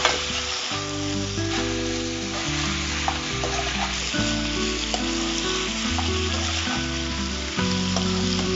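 Chicken pieces with shallots, red chillies and curry leaves sizzling in hot oil in a frying pan while a spatula stirs them, with a few light clicks of the spatula. Background music with slow, held chords plays along.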